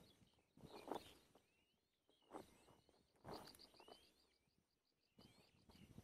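Faint bird calls: thin rising whistles and a quick run of high chips around the middle, with a few soft rustling knocks in between.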